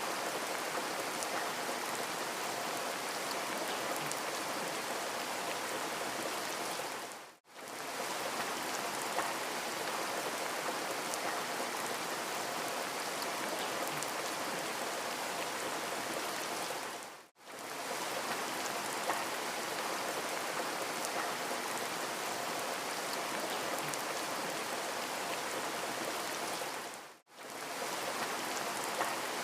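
Steady rain, a dense even hiss of falling drops, that drops out briefly to near silence three times, about ten seconds apart.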